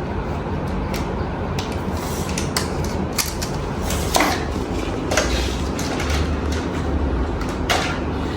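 Train running, with a steady low rumble and irregular metallic clanks and knocks, a few of them louder about four, five and near eight seconds in.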